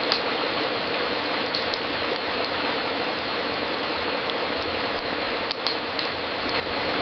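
Crackling wood fire in a fireplace: a steady hiss with scattered sharp pops, two close together about five and a half seconds in.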